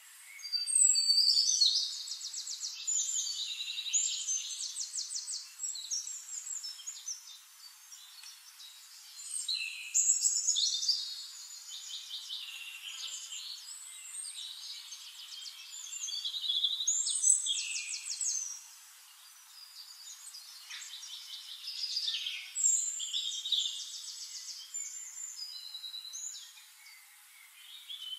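Songbird singing in bouts of fast trills and chirps, each bout a second or two long and coming every few seconds.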